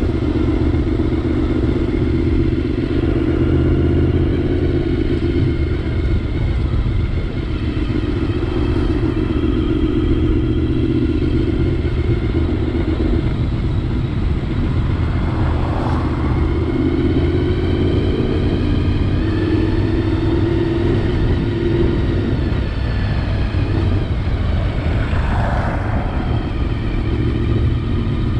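Honda VFR750's V4 engine running steadily while riding, heard from a helmet camera with wind rumble. The engine note holds and then shifts in pitch a few times past the middle.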